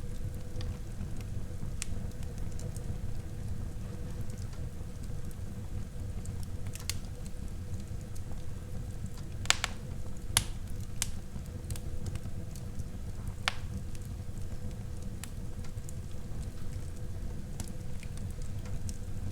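Wood fire burning in a fireplace: a steady low rush from the flames, with scattered sharp crackles and pops from the burning wood. The loudest pops come as a pair about halfway through.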